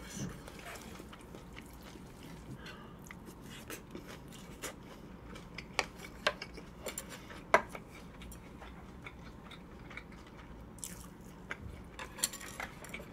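Close-miked chewing of a mouthful of chive bibimbap, with soft wet mouth sounds and a scattering of sharp clicks, the loudest about seven and a half seconds in.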